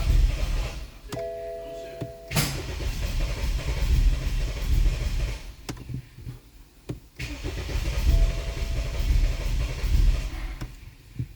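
BMW N20 four-cylinder turbo engine turned over by the starter in repeated spells without catching: a crank-no-start. A short chime sounds about a second in, in a pause between cranking spells.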